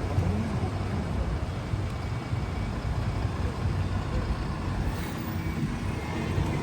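Street traffic noise: a motor vehicle running close by, a steady low rumble.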